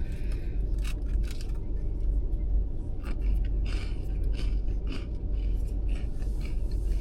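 Irregular crisp clicks and crackles from eating wafers out of their packaging, over a steady low rumble.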